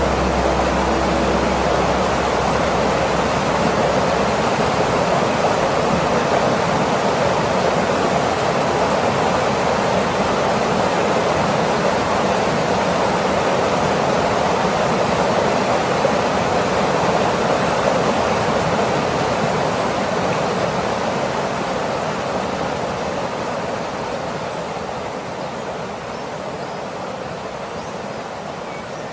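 Waterfall: a steady rush of falling water that fades slowly over the last several seconds.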